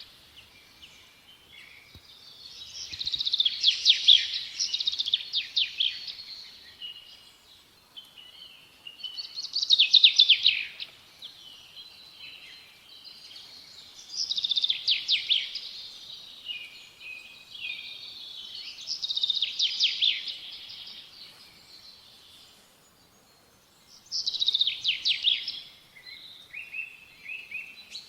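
Small songbird singing: high, fast trilled phrases of two to three seconds each, repeated about every five seconds, with soft twittering in between.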